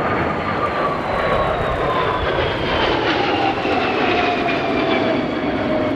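Kawasaki EC-1 jet's twin JT8D turbofan engines on a fast low pass: a loud engine rush with a whine that falls steadily in pitch as the aircraft goes by.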